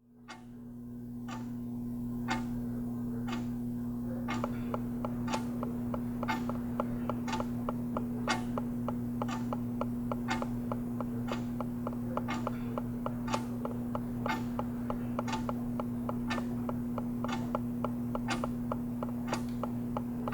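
A clock ticking about once a second, joined after about four seconds by a faster run of lighter ticks, over a steady low electrical hum.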